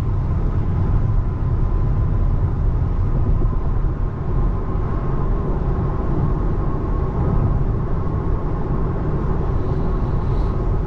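Steady road and tyre noise heard inside a 2024 Tesla Model 3 cruising on a wet freeway, a deep even rumble with hiss on top.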